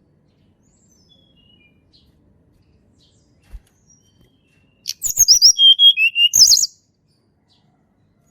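A tledekan gunung singing: faint thin whistles, then about five seconds in one loud, quick phrase of under two seconds, very high notes sliding down, a lower pair of notes and a final high flourish.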